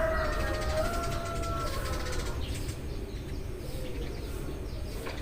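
The drawn-out end of a rooster's crow fades out over the first two seconds, over faint chirping of Eurasian tree sparrows and a steady low rumble.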